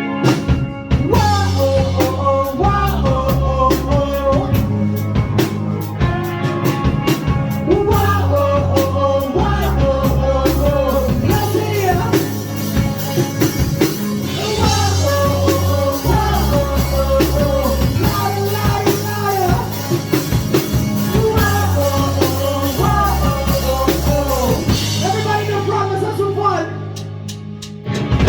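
Live rock band playing a song: drum kit, guitar and bass under a lead vocal singing. Near the end the band drops back and gets quieter for a moment before coming in loud again.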